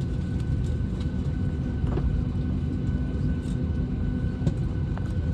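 Steady low rumble and hum inside an airliner cabin, with a couple of faint clicks.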